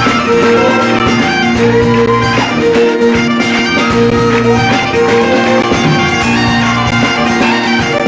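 Live Scottish traditional band playing a jig set, fiddle-led, with a lively melody over steady repeated bass notes.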